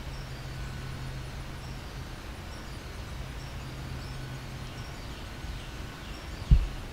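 Outdoor ambience: faint birds chirping over a steady low hum, with one dull thump near the end.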